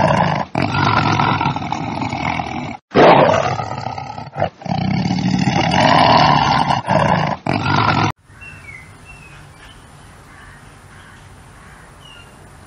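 A big cat's loud, drawn-out vocal sound, broken by several brief gaps. About eight seconds in it cuts off abruptly to a quiet outdoor background with a few faint high chirps.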